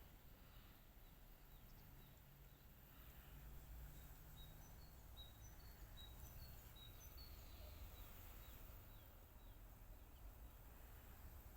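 Faint songbird chirps: a run of short, high notes, two or three a second, starting a few seconds in and stopping near the end, over a low steady rumble.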